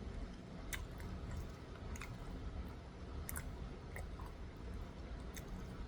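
A person chewing food quietly, with a few faint, scattered mouth clicks.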